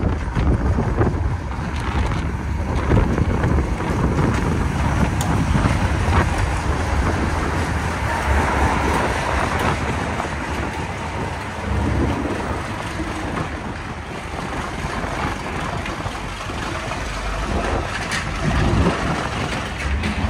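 A diesel locomotive runs slowly past at close range, pulling a train in, with the engine and the wheels on the rails giving a steady rumble.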